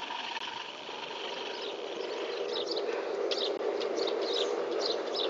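Small birds chirping again and again, starting about halfway in, over a steady hum that slowly grows louder.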